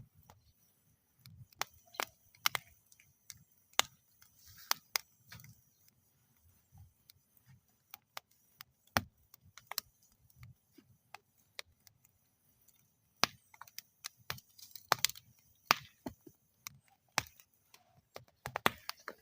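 Wood fire burning in a metal fire bowl, crackling with irregular sharp pops and snaps over a soft low rustle of flame, with a short hiss near five seconds in.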